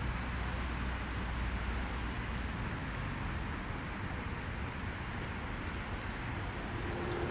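Steady outdoor city-park ambience: an even wash of noise with a low rumble underneath that eases a little about two seconds in, and faint scattered ticks.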